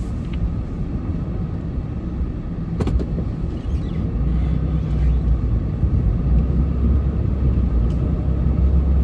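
Plow truck engine running under load while pushing snow, a steady low rumble that grows louder about four seconds in. A single knock about three seconds in.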